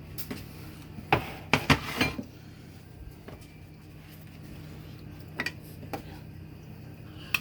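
A utensil knocking and clinking against a bowl and blender jar as roasted squash is loaded into the blender: a quick cluster of knocks about a second in, then a few single clicks near the end.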